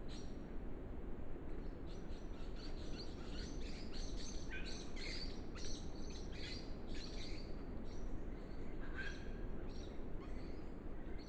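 Small wild birds chirping and twittering in quick, varied calls, busiest through the middle, over a steady low hiss.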